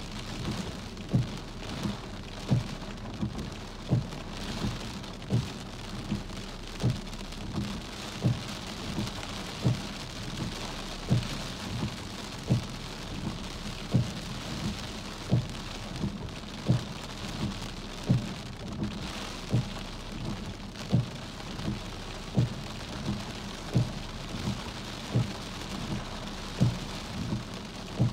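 Steady rain falling on surfaces. Over it, a soft low thump comes about every second and a half, with fainter ones in between, as regular as a machine.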